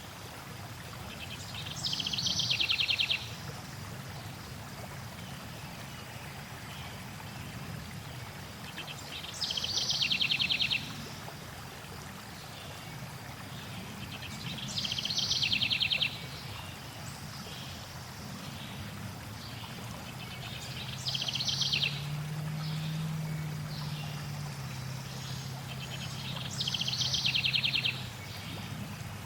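A songbird sings a short, fast trilled phrase five times, about every six seconds, over the steady low rush of flowing water.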